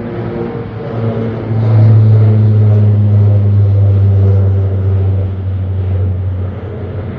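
Aircraft engines droning low and steady as a plane climbs out after takeoff. The sound swells sharply about a second and a half in and eases near the end.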